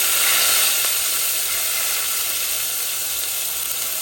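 Chopped garlic, sweet pepper and tomato sizzling in hot oil in a frying pan: a steady frying hiss that is strongest early on and eases off slightly.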